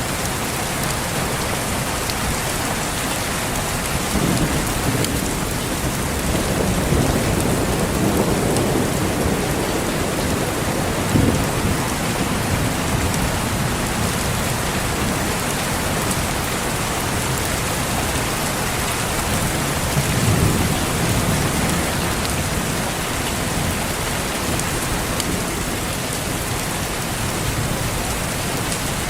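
Steady rain pattering down, with rolls of distant thunder: a long low rumble a few seconds in that ends in a sharper clap, and another rumble about two-thirds of the way through.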